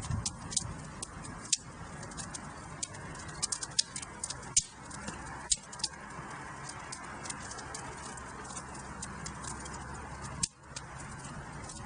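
Wood fire in a fireplace crackling, with many sharp, irregular pops and snaps over a steady low rush of burning.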